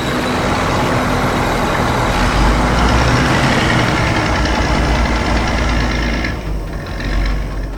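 A heavy truck engine sound effect running steadily with a deep rumble, easing off about six and a half seconds in.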